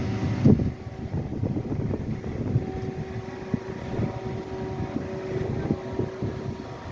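A large vehicle engine idling steadily, with wind buffeting the microphone in gusts and a loud gust hit about half a second in.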